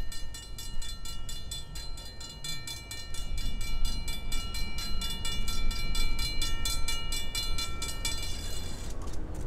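Slow-moving train of passenger cars behind a diesel locomotive, with a high metallic ringing of several steady tones and a rapid, even pulsing over a low rumble. The ringing stops about eight seconds in.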